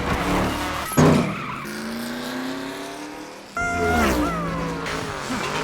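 Animated race car engine sound effects: a sharp hit about a second in, then an engine running with its pitch slowly rising. Near the middle it cuts abruptly to another loud engine rev with a falling glide and tyre squeal.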